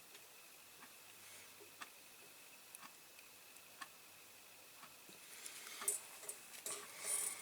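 Faint, sparse light clicks and taps of small parts and tools handled on a diecast model car, becoming a busier run of clicks and rustling about five seconds in.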